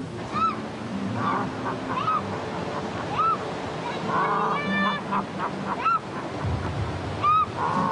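Birds calling: short, arched honking calls repeated one after another, several overlapping around the middle.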